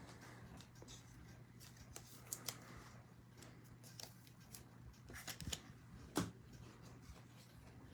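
Faint rustling and light clicks of trading cards being handled and slid against one another, with a sharper click about six seconds in, over a low steady hum.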